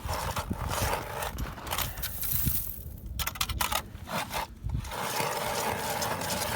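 Footsteps crunching through snow, irregular, over a steady rush of wind on the microphone.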